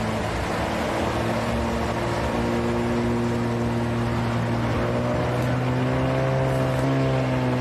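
Aircraft engine droning steadily, heard from inside the cockpit, with a strong low hum and overtones; some of the higher tones rise slightly in pitch about five seconds in.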